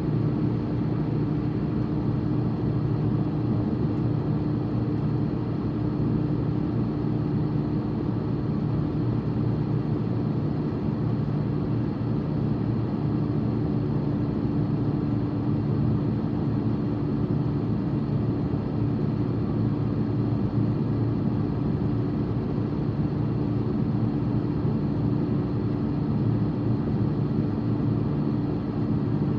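Steady road and engine noise of a car driving, heard from inside the cabin, with a constant low hum running under it.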